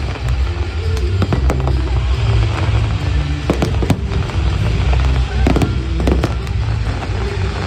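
Fireworks going off in a rapid run of sharp bangs and crackles, over loud music with a heavy bass.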